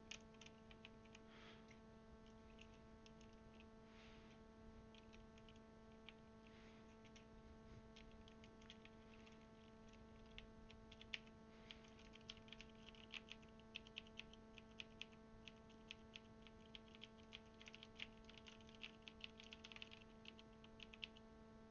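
Faint clicks and taps of plastic keycaps being handled and pressed onto the Cherry switches of a Das Keyboard mechanical keyboard, sparse at first and busier from about halfway through, over a steady low electrical hum.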